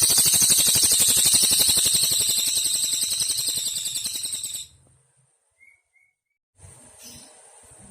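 Cililin singing one long, very fast high trill that fades a little and stops abruptly about four and a half seconds in. A pause of about two seconds follows, then a faint steady background hiss returns.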